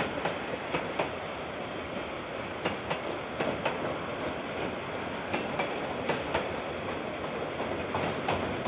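Train rolling past: a steady rumble of wheels on rail, broken by irregular sharp clicks.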